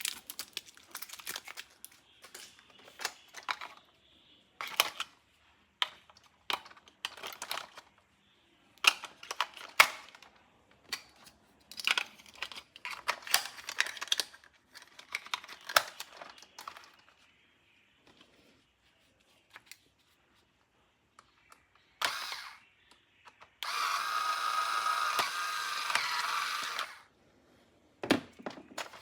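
Plastic toy packaging and toy parts being handled: crinkling, clicks and snaps. Past the middle there is a pause, then about three and a half seconds of a steady, loud buzzing tone that cuts off suddenly.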